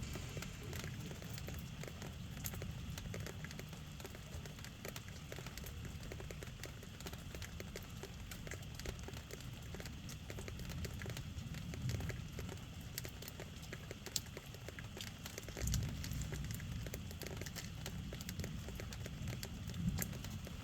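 Rain falling steadily, with many separate drops tapping close by, over a low rumble that swells now and then.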